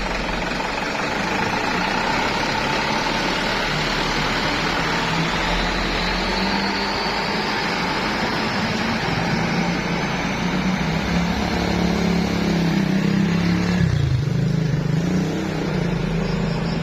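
Truck engine running on the move, with a thin whine that rises over the first several seconds and a shift in the engine note a few seconds before the end.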